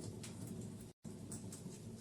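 Wood fire burning: a steady low rumble of flames with scattered sharp crackles and pops. The sound cuts out completely for a split second about halfway.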